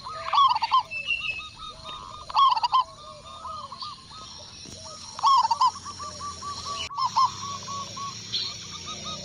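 Zebra doves (perkutut) cooing: fast strings of short, rolling notes, with three louder bursts and softer runs between them.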